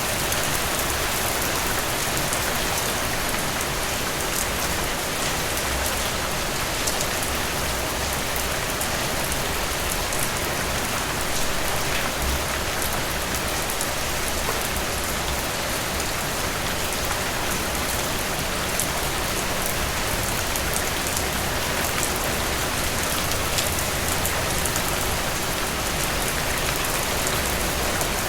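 Steady rain hissing, with scattered individual drops ticking a little louder here and there.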